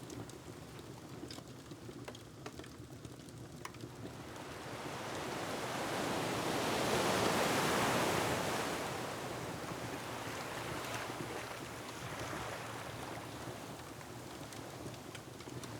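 An ocean wave surges in and washes back over a low, steady surf rumble, building about four seconds in, cresting midway and then fading. A wood fire crackles with small, sparse pops, most of them near the start.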